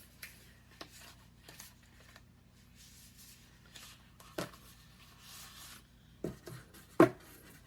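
An eyeshadow palette and its packaging being handled: scattered light taps and rustles, with one sharper click about seven seconds in.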